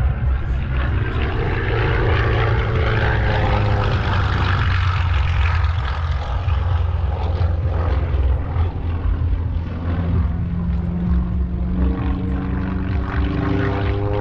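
Propeller airplane flying, its engine note rising and falling in pitch over a deep, steady rumble.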